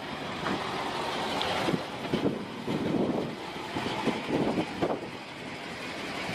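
A vehicle running, with wind buffeting the microphone.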